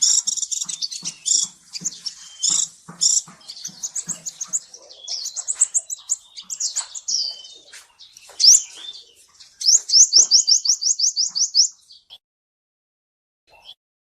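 Kolibri ninja sunbird singing: rapid, high chirps and twittering trills, ending in a fast run of about eight rising notes a second before the song stops about twelve seconds in. Soft low knocks come under the chirps in the first few seconds.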